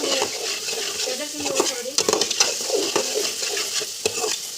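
Green peas and French beans sizzling in hot oil in a pan while a spatula stirs them, with repeated scrapes and knocks of the spatula against the pan.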